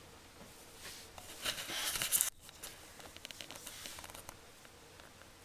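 Rustling, crinkling noise, loudest between about one and two seconds in, that cuts off suddenly just after two seconds, followed by faint scattered clicks.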